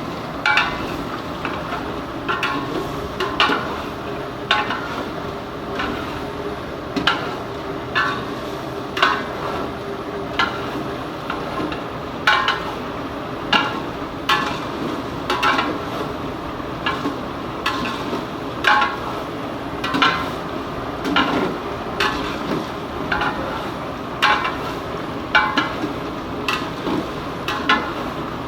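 A metal ladle scraping and knocking against a large cooking pot about once a second as chicken gizzards are stir-fried (bhuna), over a steady hiss of frying.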